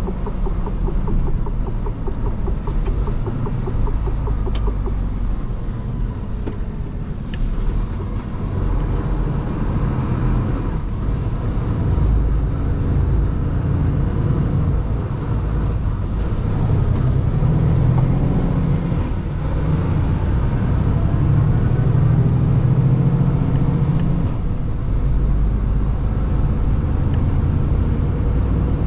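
Mercedes-Benz Actros L truck, loaded with stones, driving: steady diesel engine and road rumble that swells in the second half, with a few sharp clicks in the first several seconds.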